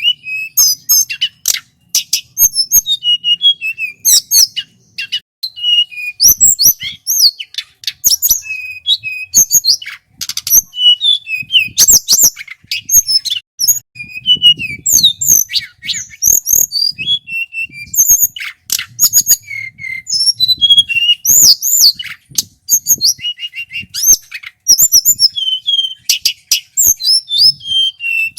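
Male tledekan gunung singing a fast, varied song of short whistled notes, sweeps and trills, one phrase after another with only brief pauses.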